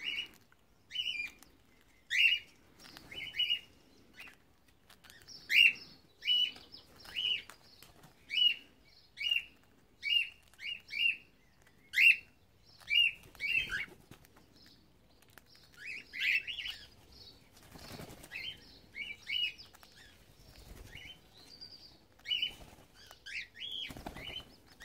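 Cockatiels chirping: a long run of short calls, each about a second apart, with a couple of brief flutters of wings.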